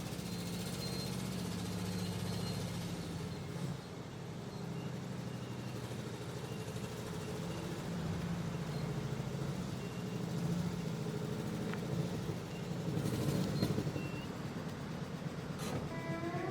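An engine running steadily, with a low hum that holds its pitch.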